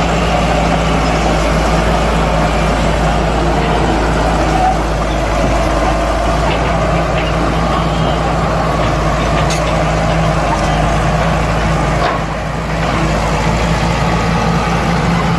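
Heavy diesel engine of earth-moving machinery running steadily under load, with a brief drop in level about twelve seconds in.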